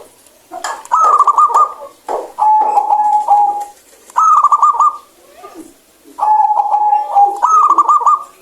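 Zebra dove (perkutut) singing its rolling cooing song: phrases come about every two seconds, each a steady cooing note or a quick rolling run of coos, repeated several times.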